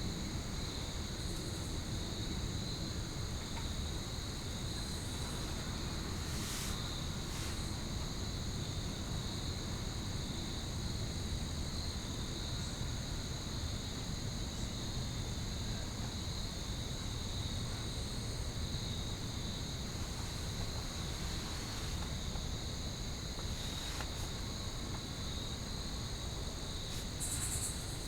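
A steady chorus of insects singing in high, unbroken tones, over a low steady rumble, with a few faint brief clicks.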